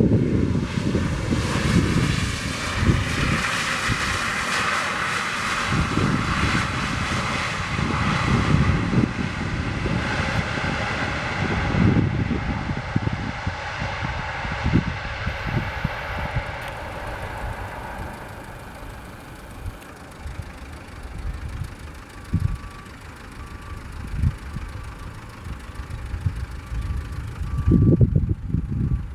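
Jet airliner's engines heard after the aircraft has passed, a steady roar with a faint whine that fades away over about twenty seconds, with wind buffeting the microphone.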